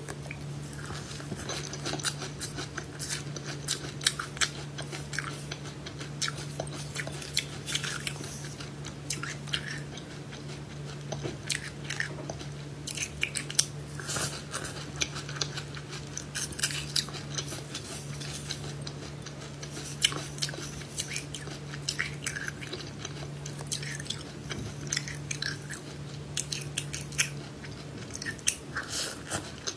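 Close-miked chewing and biting of crunchy food, with dense sharp crackles and crunches. A steady low hum runs underneath and stops near the end.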